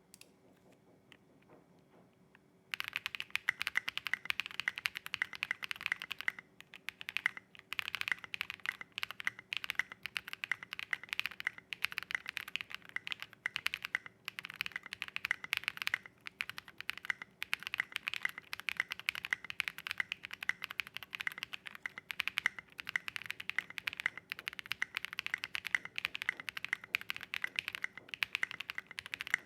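Typing on a Space65 custom mechanical keyboard with SA profile keycaps, lubed Matcha switches and lubed stabilizers, its case foam removed: a fast, continuous clatter of keystrokes that starts about three seconds in.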